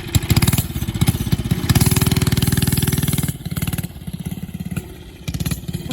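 Small engine of a vintage Ruttman minibike running with rapid, even firing pulses. It gets louder about two seconds in, eases off after about three seconds, and picks up again near the end.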